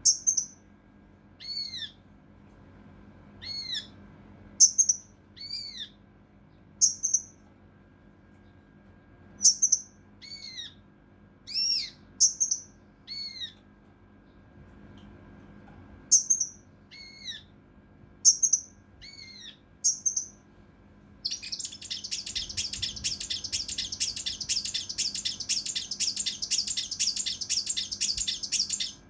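Kinoi (cucak rante mas) songbird calling: short arched whistled notes repeated about once a second. From about two-thirds of the way in, it switches to a long, fast, rough rattling trill of tightly packed notes, the "tembakan kasar rapat" burst prized in contest-bird masteran.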